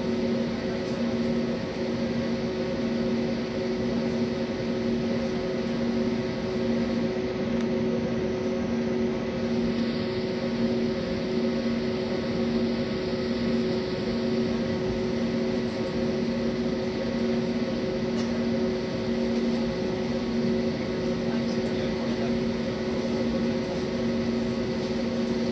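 Steady cabin hum of an Airbus A320 on the ground before its takeoff roll, engines not yet spooled up: a few steady low tones over a constant rush of air.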